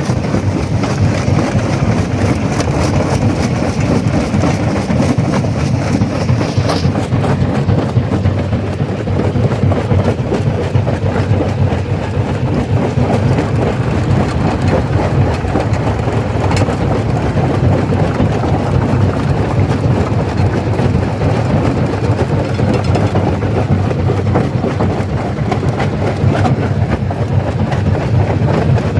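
Stone crusher machine running while rock is crushed: a dense, continuous rattle and crunch of many small impacts over a heavy low rumble. A higher hiss drops away about seven seconds in.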